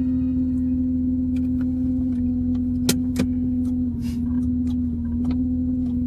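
Car engine idling steadily, a constant hum over a low rumble, with a few sharp ticks or clicks and a slight dip in pitch about four seconds in.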